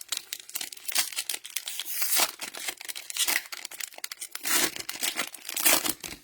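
Cellophane wrappers of trading-card cello packs being torn open and crumpled by hand: a dense, continuous crinkling and crackling that stops abruptly at the end.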